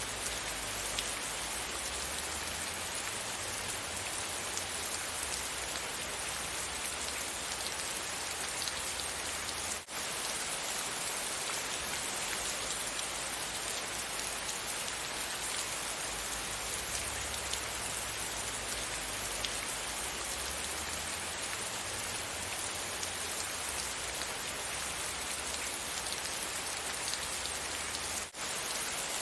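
Steady rain falling, a dense, even patter that briefly dips out twice, about ten seconds in and again near the end.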